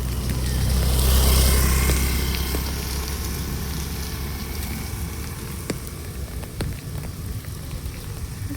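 Rain falling steadily, with scattered drops ticking close by. About a second in, a low rumble with a brighter rushing hiss swells and fades over a couple of seconds.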